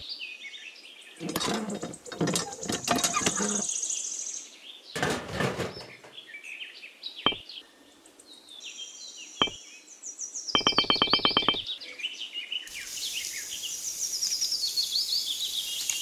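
Birds chirping in runs of quick, high, falling notes, mixed with scraping and tapping as small pieces are handled on sand. A short, fast rattle comes about ten and a half seconds in.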